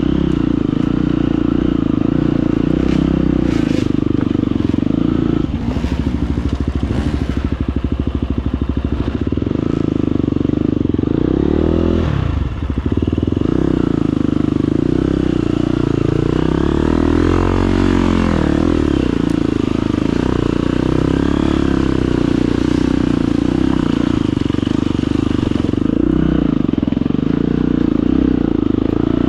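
Husqvarna FE250 four-stroke single-cylinder enduro motorcycle engine running steadily under the rider. Its revs dip and rise a few times as the throttle is worked over rough ground.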